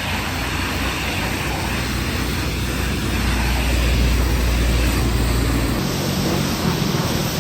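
Pressure washer at work: a steady motor drone under a continuous hiss of water spray. The drone shifts to a higher pitch about six seconds in.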